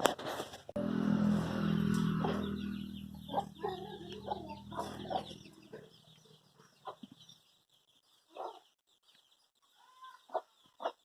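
Chickens clucking in short calls, over a low droning hum that fades out about halfway through.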